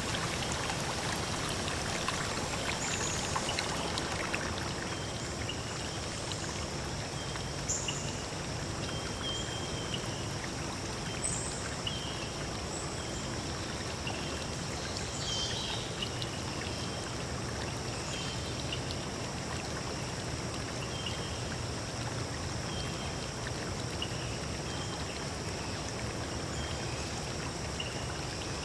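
A forest stream running steadily, with short high chirps repeating through it and a faint steady high tone above.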